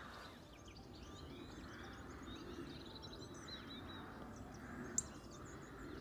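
Faint birdsong of small birds, many short chirps and trills, over a steady low outdoor hum. A single sharp click about five seconds in.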